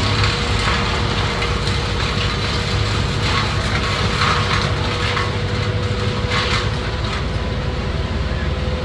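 Engine of tree-cutting machinery running steadily, with a constant whine and several short rattles.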